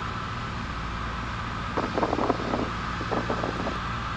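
Steady cabin drone of a 1977 Cessna 172N's four-cylinder Lycoming engine and propeller in flight, with a few short irregular bursts of noise about two and three seconds in.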